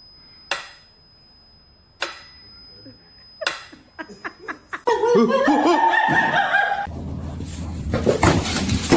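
A person laughing in the second half, after a few sharp clicks.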